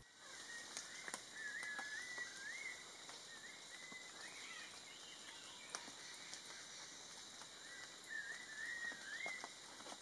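Faint forest ambience with a bird singing short, wavering whistled phrases in three spells, and a few soft ticks.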